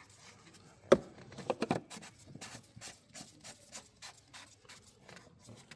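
Light clicks and knocks of hand work on a BMW 218d's oil filter housing: one sharp knock about a second in, then a run of small clicks at about three a second.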